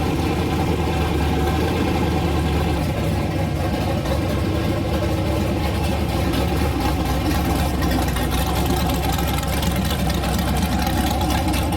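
A 5.3 L V8 with a high-lift Truck Norris cam, running through a carburetor and open headers, idling steadily on an engine run stand.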